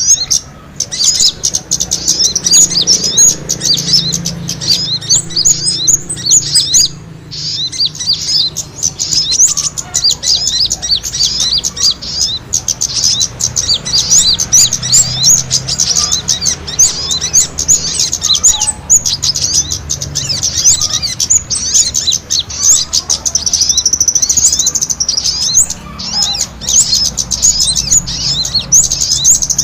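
Small birds chirping in a fast, dense, unbroken stream of high, quick notes, the agitated calls of small birds fighting, used as a bird-trapping lure call.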